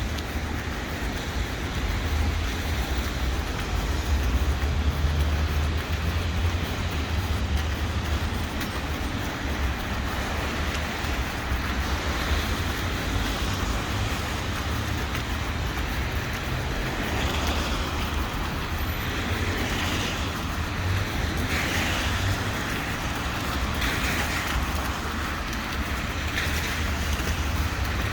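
City street ambience: a steady wash of road traffic with a constant low rumble, swelling a little now and then as vehicles pass.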